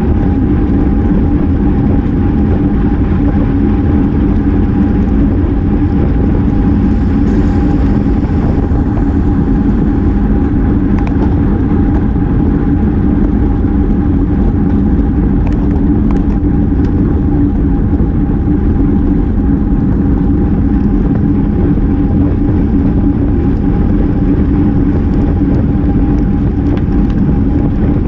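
Steady rush of wind and road noise on a bike-mounted action camera at racing speed, with a constant low hum under it.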